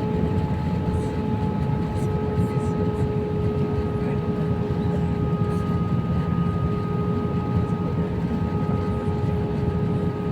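Steady in-flight cabin noise of an Airbus A319: a constant rumble of airflow and jet engines with a few steady hum tones on top, as heard from inside the cabin.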